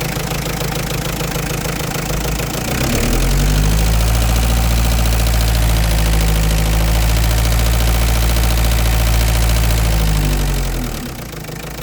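Renault 19's 1.9-litre diesel engine running, raised from idle to a higher steady speed about three seconds in and settling back toward idle near the end. It carries a weird noise that the owner links to its Roto injection pump.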